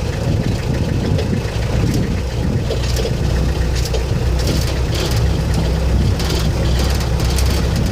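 Safari jeep engine idling with a steady low rumble, and a few light clicks above it.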